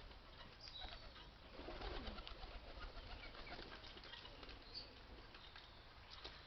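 Many birds chirping and calling faintly, in a busy scatter of short calls, with a lower call gliding downward about two seconds in.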